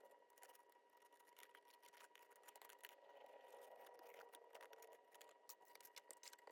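Very faint snips and rustles of small scissors fussy-cutting paper, barely above near silence, with a faint steady high tone.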